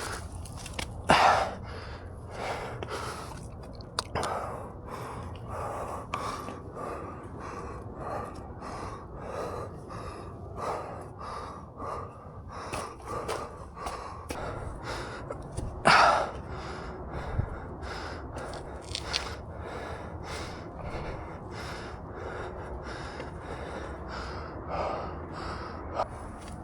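A runner's heavy, rhythmic panting while climbing a steep trail, short hard breaths coming about one and a half to two a second, with two louder gasps about a second in and about sixteen seconds in.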